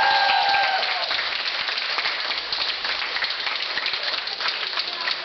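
Audience applauding at the end of a song, as the singer's held final note with musical backing stops about a second in.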